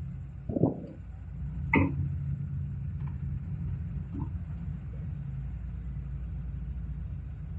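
Excavator diesel engine running steadily, with two short louder sounds about half a second and just under two seconds in.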